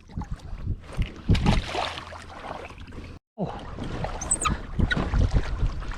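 Water sloshing and slapping against a Hobie pedal kayak's plastic hull, with irregular splashes and knocks and wind on the microphone. The sound cuts out completely for a moment about three seconds in, and a brief high squeak follows about a second later.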